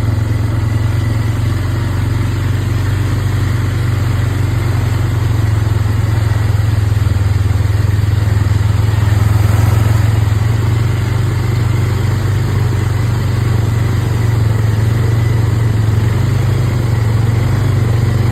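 Engine of an off-road vehicle running steadily at low revs while being ridden, a deep drone that swells a little about halfway through.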